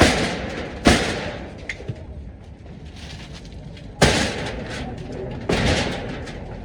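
Four heavy impacts at uneven intervals, each ringing out briefly: demolition blows knocking down a structure.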